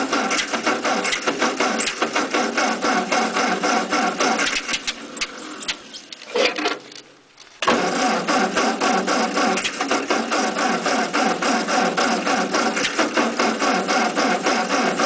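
Starter on a 1948 Ford 8N's four-cylinder flathead engine cranking it on the 6-volt system, a fast even chugging that doesn't catch. The cranking stops about six seconds in and starts again a second and a half later. This is a cold start on an engine the owner says tends to flood.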